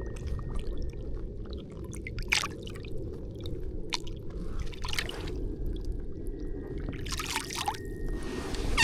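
Lake water sloshing and splashing as a caught bass is held in the water beside a kayak to be released, with a few louder splashes about two and a half, five and seven and a half seconds in, over a steady low rumble.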